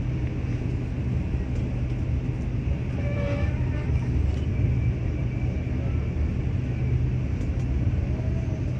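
KTM passenger train running, heard from on board as a steady low rumble.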